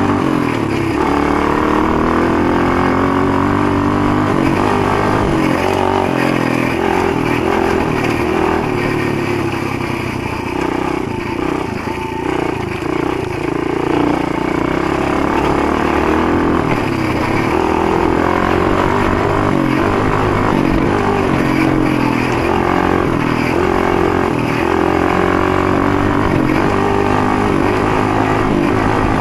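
Motoland GF125 pit bike's single-cylinder four-stroke engine running under way, its pitch rising and falling with the throttle and easing off briefly about halfway through.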